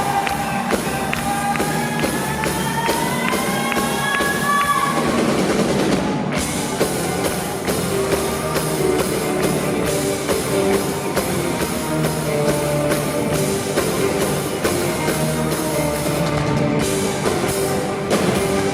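A live band playing a pop-rock song, with sustained melodic notes over a steady drum beat.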